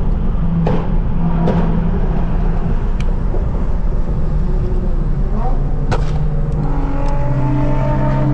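Car engines running and revving, the pitch climbing about five seconds in and again near the end, with several sharp cracks over the top.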